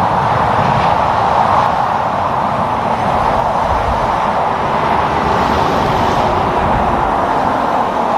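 Steady road noise of highway traffic: a continuous rush of tyres and wind with no single vehicle standing out.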